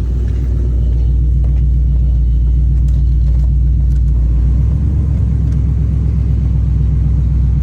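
Ford Crown Victoria's 4.6-litre V8 idling steadily with a loud, low exhaust rumble, warming up after a thermostat change. The idle note shifts slightly about five seconds in.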